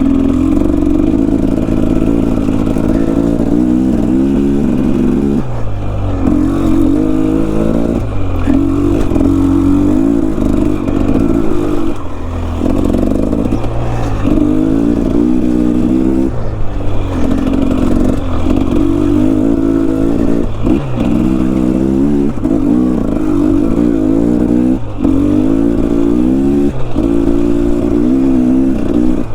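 Enduro dirt bike engine revving up and down over and over, its pitch rising and falling every second or two as the throttle is worked.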